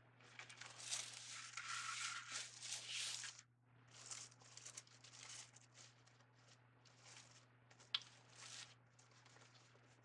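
Ribbon and deco mesh rustling and crinkling in irregular bursts as they are handled, with a sharp click about eight seconds in. A faint steady low hum runs underneath.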